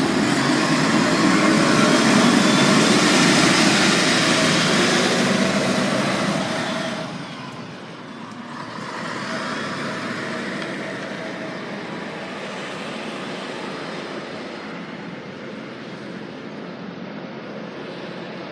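Scania N113CRB city bus's diesel engine pulling away under load, loud for about seven seconds, then dropping off sharply and carrying on more faintly as the bus draws away.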